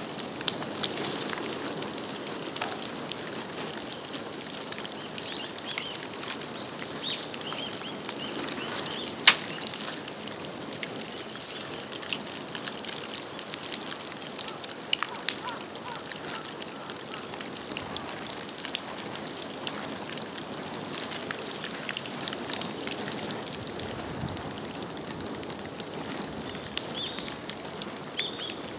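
Bamboo bonfire burning, crackling with many sharp snaps and one loud pop about nine seconds in. A thin high whistle comes and goes through it.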